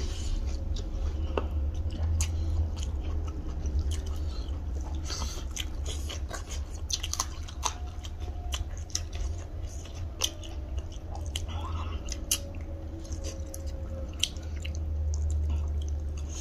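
Close-miked chewing and wet lip-smacking of two people eating rice and chicken curry by hand, with many small sharp mouth clicks scattered throughout. A steady low hum runs underneath.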